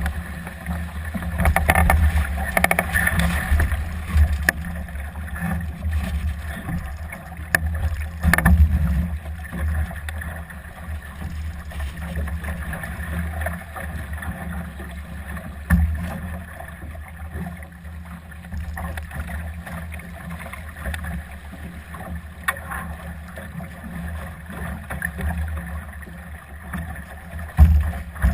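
Winder Solo sailing dinghy under way in gusty wind: water rushing along the hull under a steady low rumble of wind on the microphone, swelling about two seconds in, again about eight seconds in, and near the end, with occasional sharp clicks.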